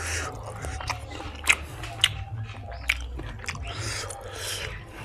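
Close-up chewing and smacking of a mouthful of pork fry and rice, with a few sharp wet mouth clicks.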